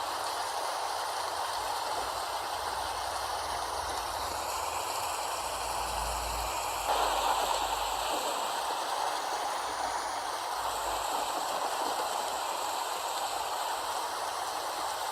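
Steady rain falling, an even hiss that swells briefly louder about seven seconds in.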